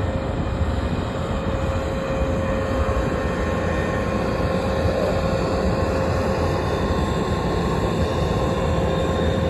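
Aircraft engine running steadily on the ground: a constant low rumble with a steady whine held at one pitch.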